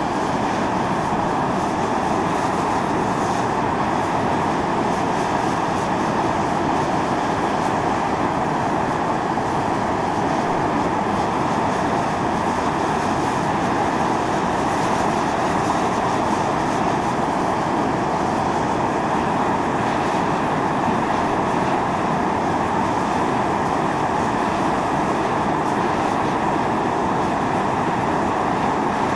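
Volcanic steam venting from a fumarole: a steady, unbroken mid-pitched rushing hiss that holds the same level throughout.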